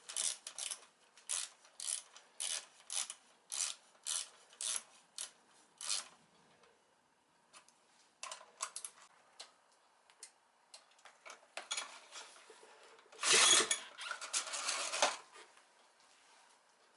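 Hand work scraping and rubbing: a run of short scraping strokes, about two a second, then scattered smaller scrapes and handling noises, and a louder rasping rub about two-thirds of the way through.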